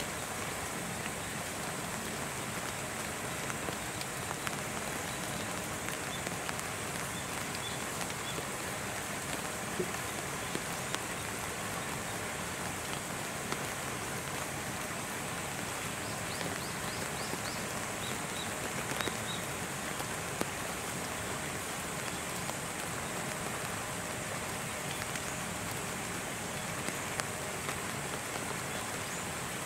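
Steady rain falling, an even hiss with scattered drip ticks.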